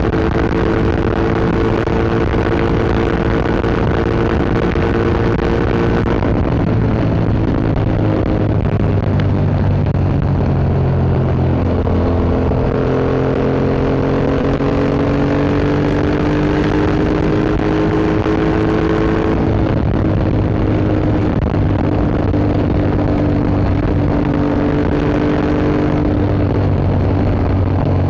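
Yamaha MT-07's parallel-twin engine running through an Akrapovic Racing Line exhaust while riding at moderate, steady engine speed. The pitch steps down a few times and slowly climbs in between, as with gear changes and gentle acceleration.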